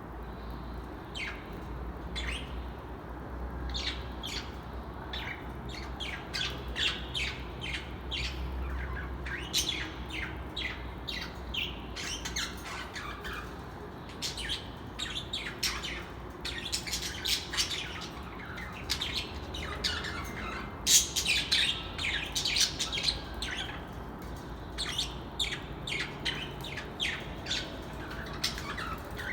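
Birds chirping and squawking: many short, sharp calls in quick succession, busiest and loudest a little past the middle.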